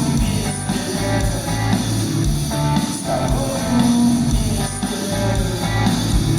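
Live rock band playing an instrumental passage, with guitar to the fore over bass and drums.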